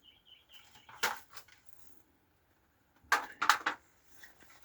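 Wooden beehive box parts being handled during an inspection: a few sharp knocks and scrapes of wood, one about a second in and a louder cluster about three seconds in.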